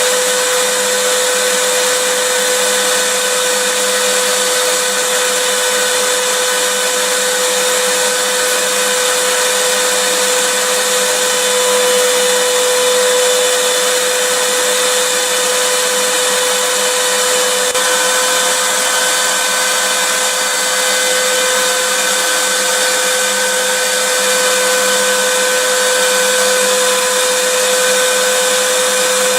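Vacuum cleaner motor running steadily, a continuous rushing noise with a steady whine held on one pitch.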